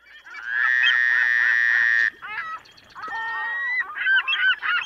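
Bird calls: one long, held call that cuts off about two seconds in, then scattered short calls, turning into a quick run of repeated calls near the end.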